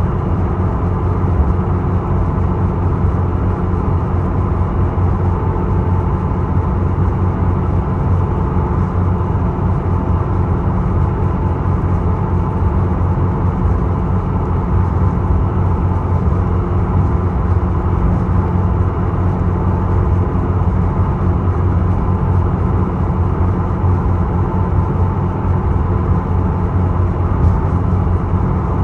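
Engines of the Isokaze, a small inter-island passenger ferry, running steadily: a loud, even low drone with a faint steady whine above it.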